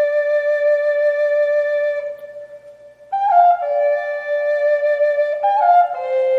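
Background music: a flute-like wind instrument playing long held notes. It fades out about two seconds in, then comes back a second later with a few quick note changes.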